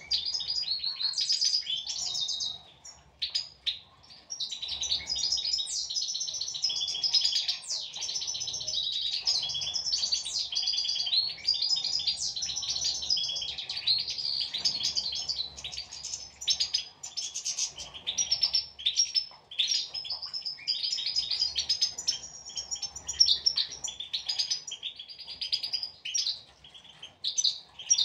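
European goldfinches twittering and singing: a dense, continuous run of quick chirps and trills, with a short lull a few seconds in.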